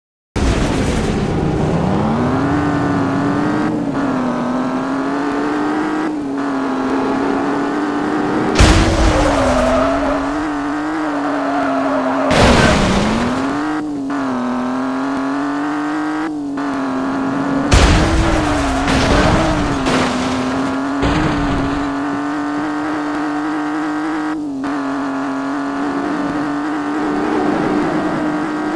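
Car engine running at high revs, its pitch wavering up and down, with a few brief dips. It is broken by loud sudden noisy bursts about nine, twelve and eighteen seconds in.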